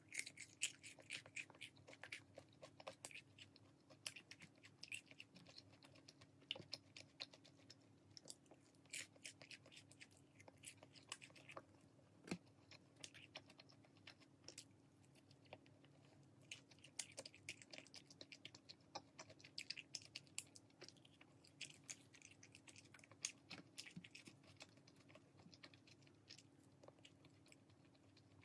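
Close-miked chewing of crispy glazed fried chicken (dakgangjeong), with many short crunches coming in runs.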